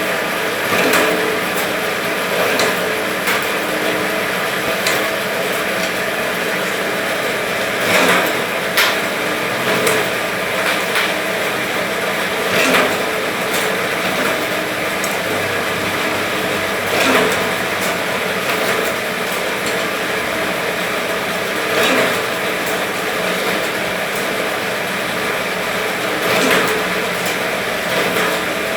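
Electric skewering machine running steadily with a mechanical hum, with a louder clack every few seconds.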